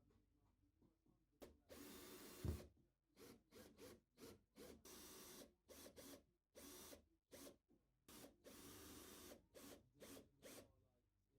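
A hand tool working wood in a series of short scraping strokes with brief pauses between them, with one sharp knock about two and a half seconds in.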